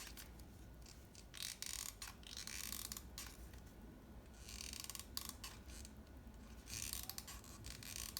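Hot glue gun in use, its trigger squeezed again and again so the feed mechanism clicks and creaks as it pushes the glue stick through, in short, faint, irregular spells.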